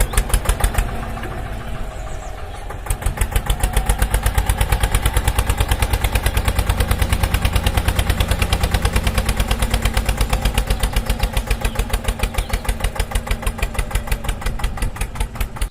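Mini tractor engine sound: a steady, rapid chugging at idle. It is quieter for the first few seconds, then louder and even for the rest.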